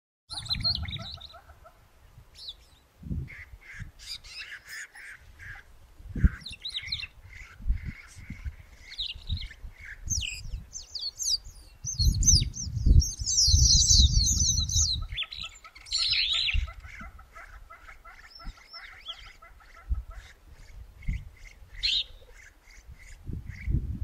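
Several wild birds calling, a mix of short repeated chirps and squawks, with a dense burst of high chattering song about halfway through. Low rumbling bursts come and go beneath them and are loudest around the middle.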